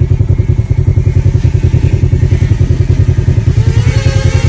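Polaris side-by-side's engine running under way, with a rapid, even pulsing beat; a rising whine joins in near the end.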